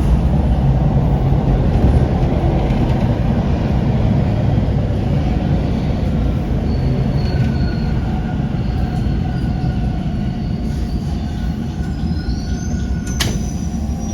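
Toronto TTC Line 2 subway train in motion, heard from inside the car: a loud steady low rumble, with thin high wheel squeal tones coming in about halfway through and a single sharp click about a second before the end.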